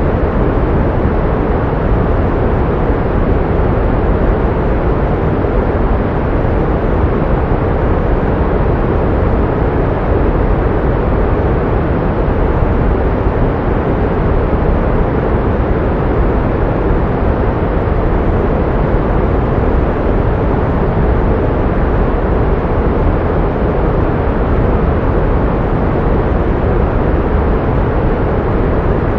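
Steady pink noise: an even, unchanging rush with most of its weight low down and little at the top.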